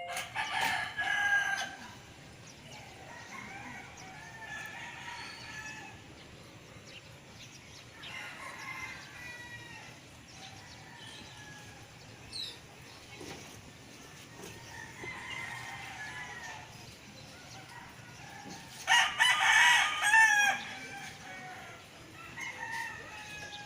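Roosters crowing: a near one crows loudly twice, at the start and about 19 seconds in, while fainter crows from other roosters answer in between.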